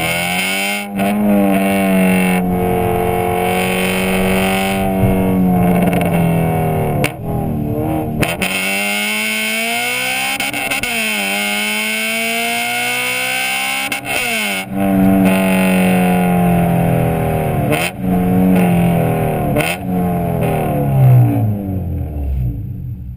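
Honda B16A2 1.6-litre DOHC VTEC inline-four breathing through a Skunk2 Alpha header, decat pipe and Megapower R exhaust, revving hard. Its pitch climbs and holds high, drops sharply at several short breaks that sound like gear changes, then falls away near the end as the revs drop.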